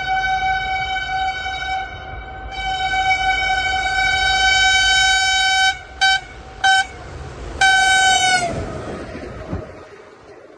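Passing train's locomotive horn: a long blast, a second long blast, two short toots, then a last blast that falls in pitch as it ends as the locomotive passes at speed. The rumble of the train then fades away.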